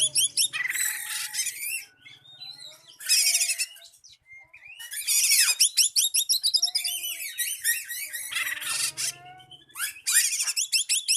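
Oriental magpie-robin singing its aggressive 'emosi' song, the kind used to lure and challenge a rival male. It comes in about five bursts of fast, dense, high-pitched trills and rapidly repeated notes, with short gaps and a few lower whistles between them.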